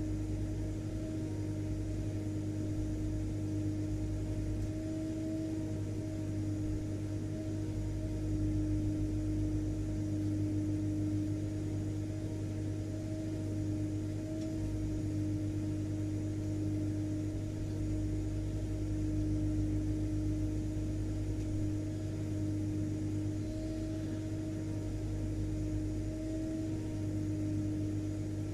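Vacuum cleaner running steadily: a continuous motor drone with a constant hum and airflow noise, unchanging throughout.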